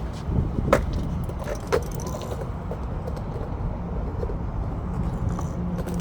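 Skateboard wheels rolling on concrete with a rattling rumble, broken by a couple of sharp clacks in the first two seconds. A low rumble of wind on the microphone runs under it.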